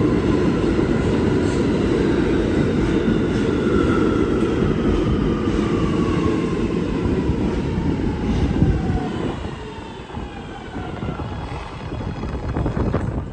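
New York City subway A train slowing in the station: a heavy rumble under a whine from the traction motors that falls steadily in pitch. The noise eases off about ten seconds in.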